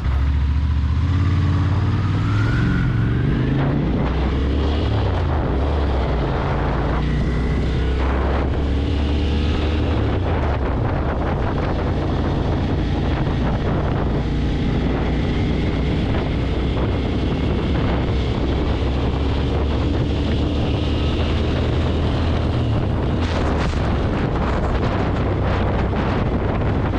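Motorcycle engine running under way, its pitch shifting as the revs change, with wind noise on the microphone.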